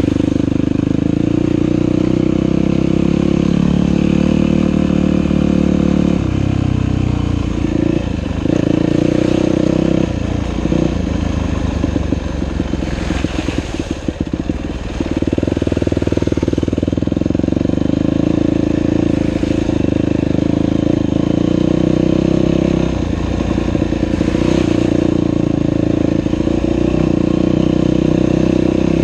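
Dirt bike engine running as the bike is ridden along a trail. The engine note breaks up and turns choppy for several seconds around the middle as the throttle is eased, then steadies again.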